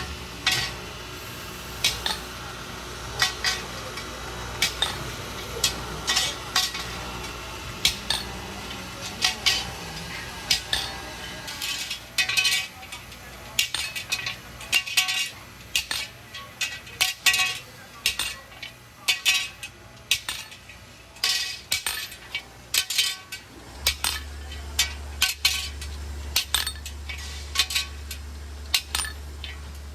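Irregular metallic clinks and taps, like metal parts or tools knocking together, some close together and some a second or more apart. A steady low hum comes in about two-thirds of the way through.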